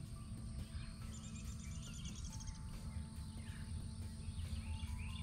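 Birds chirping along the riverbank, with a fast high trill about a second in, over a steady low rumble of wind or outdoor noise.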